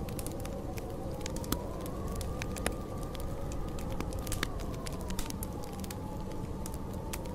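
Storm wind howling, a whistling tone that slowly rises and falls over a steady rush, while a wood fire crackles with scattered sharp pops.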